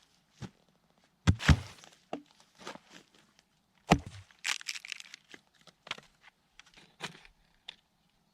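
Wood being struck and cracking during hand work on a log build: two heavy knocks about a second and a half in, another about four seconds in, then a run of lighter cracks and clicks.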